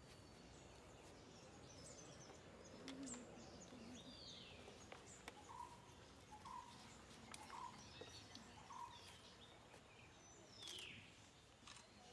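Faint outdoor ambience with birds calling: two downward-sweeping whistles and, between them, a run of four short notes about a second apart, with a few faint clicks.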